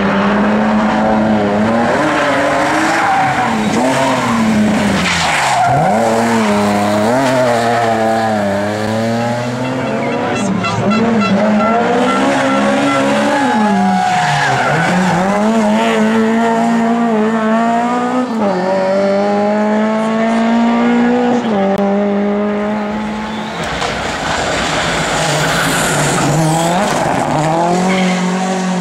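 Rally car engines revving hard. The pitch climbs and drops again and again with gear changes and lifts off the throttle.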